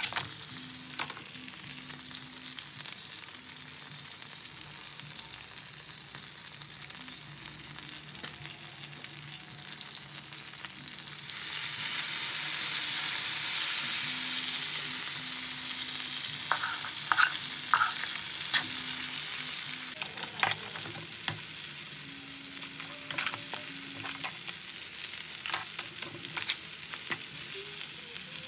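Crabs sizzling as they fry in a wok, stirred with a utensil that scrapes and clicks against the pan. The sizzle gets louder about twelve seconds in.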